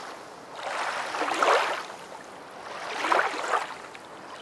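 Rushing water swelling and fading in surges, two of them a second and a half apart, like waves washing in.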